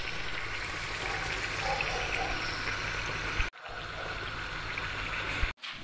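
Beignet dough frying in a pan of hot oil: a steady sizzle with bubbling. It drops out briefly twice, about three and a half seconds in and just before the end.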